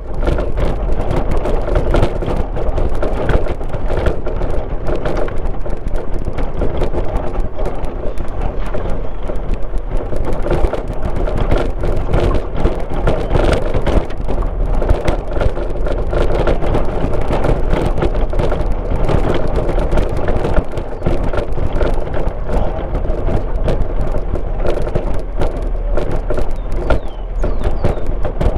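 A car on the move: steady engine and tyre-on-road noise with a constant low rumble, peppered throughout with many small clicks and rattles from a rough road surface.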